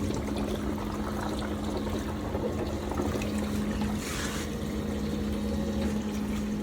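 Water pouring into a bucket, filling it around a small submersible pump, over a steady low hum. The pouring rushes louder for a moment about four seconds in.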